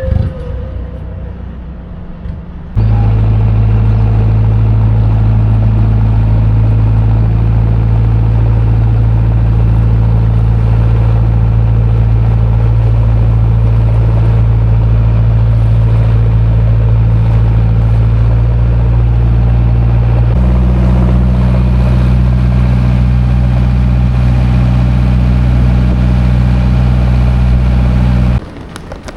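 A motor vessel's engine running steadily with a loud low drone, which steps up in pitch about two thirds of the way through. It starts and stops abruptly.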